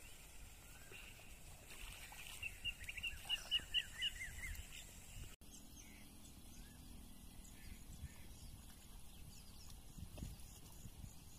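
Quiet outdoor farmland ambience with a bird calling a quick run of high chirps, about five a second, for a couple of seconds. After a sudden brief dropout, fainter high chirps continue.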